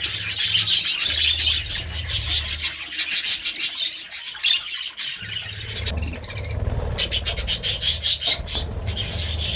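A flock of budgerigars chattering, a fast run of short chirps and clicks over a low hum, easing off briefly about four seconds in.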